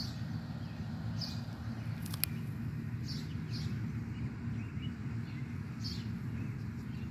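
A few short, high bird chirps, spaced a second or more apart, over a steady low outdoor rumble. There is one sharp click about two seconds in.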